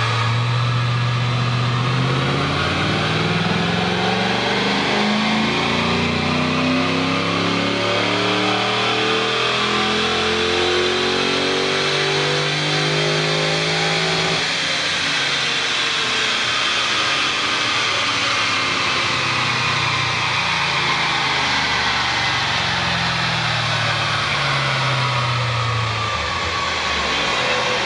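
Ford Mustang GT's 4.6-litre V8 making a full-throttle pull on a chassis dynamometer. The engine note climbs smoothly in pitch for about fourteen seconds. The throttle then shuts off and the engine and rollers wind down, falling in pitch over the next dozen seconds.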